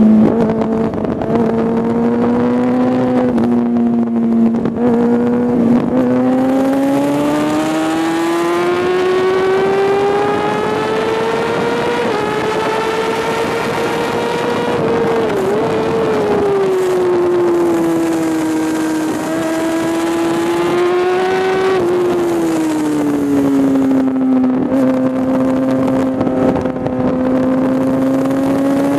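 Onboard sound of a Kawasaki ZX-6R sport bike's inline-four engine at track pace. It holds a steady note, then climbs in pitch for about nine seconds as it pulls hard down a straight. It falls away over the next several seconds under braking and holds low again near the end, with wind rushing over the microphone at speed.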